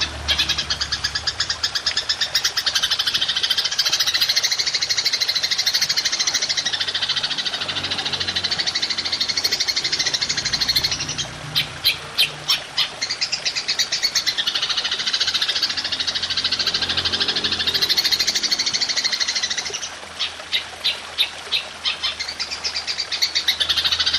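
Golden grasshopper (belalang emas) calling in long, fast buzzing trills. Twice, about halfway through and again later on, the trill breaks into a short run of separate rapid chirps before resuming.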